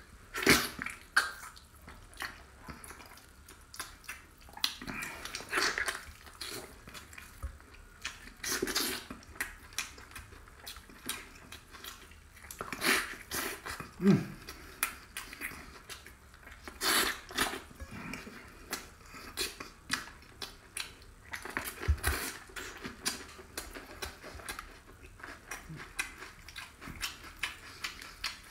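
Close-miked eating of braised pork by hand: wet chewing and lip smacks, irregular and uneven in loudness.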